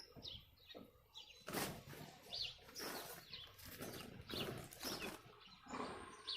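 Small birds chirping over and over, short falling chirps about twice a second, with several bursts of rustling noise in the middle.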